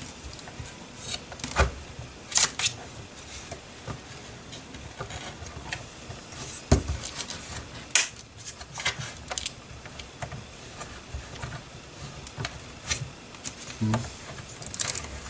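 Hands handling small drone parts and screws: irregular light clicks, taps and rubbing, with a few sharper knocks scattered through.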